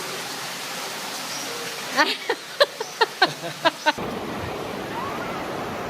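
A young child giggling and squealing in a quick run of about eight short, high-pitched bursts, about a second in to just before the middle, over a steady outdoor hiss.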